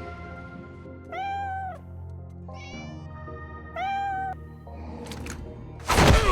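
A cat meowing: two drawn-out, rising-and-falling meows about a second in and about four seconds in, with a shorter, higher call between them, over background music. A loud sudden burst comes near the end.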